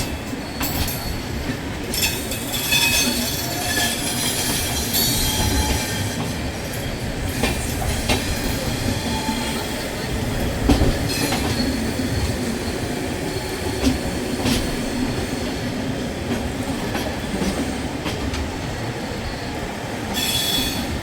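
Passenger express train coaches rolling out of a station: a steady rumble of wheels on track with irregular clicks over the rail joints and a high wheel squeal, strongest early on.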